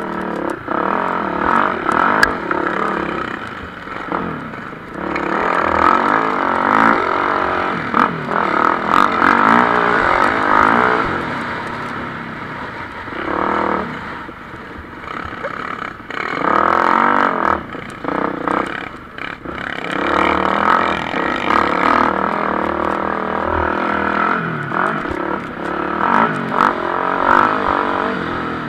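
Several MX1-class motocross bikes racing, engines repeatedly revving up and dropping off as they accelerate and shift, with loudness surging and fading as bikes pass.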